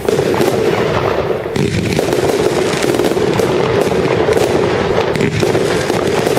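Fireworks going off in a dense, continuous run of bangs and crackles, with no let-up.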